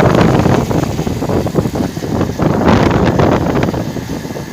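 Wind buffeting the microphone in gusts, over the running noise of a moving vehicle.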